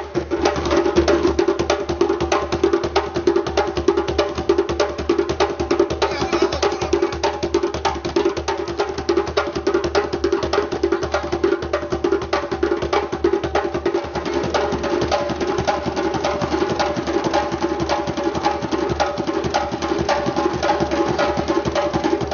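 African percussion music: a dense, fast rhythm of hand-drum strikes with a steady pitched drone underneath, played without a break and cutting off abruptly at the very end.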